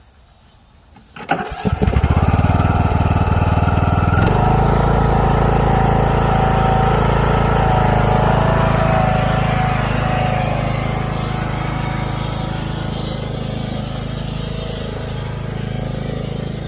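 Small engine starting about a second in, catching almost at once and then running steadily. Its note changes about four seconds in, and it runs on slightly quieter toward the end.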